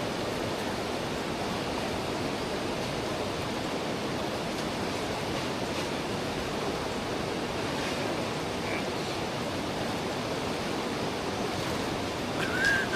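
A fast-flowing river rushing steadily with a strong current.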